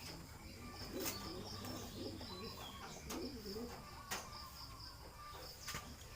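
Domestic pigeons cooing, low wavering coos several times over, against a steady chirping of insects, with a few sharp clicks about one, four and five and a half seconds in.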